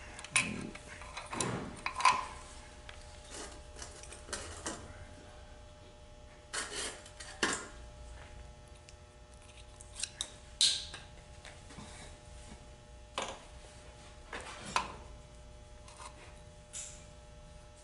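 Scattered metal clicks and clinks of transmission parts and tools being handled as the parking pawl rod is fitted into the case, with a faint steady hum underneath.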